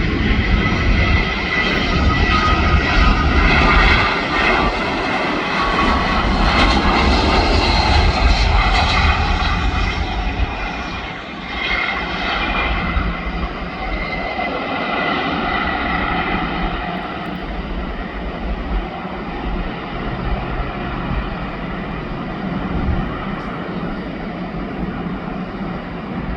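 Jet airliner coming in to land, its engines giving a broad roar with a steady whine on top. It is loudest over roughly the first third, then fades and settles.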